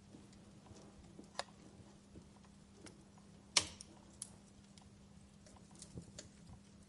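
Wood fire crackling: irregular small pops and snaps, the sharpest about halfway through, over a faint steady hum.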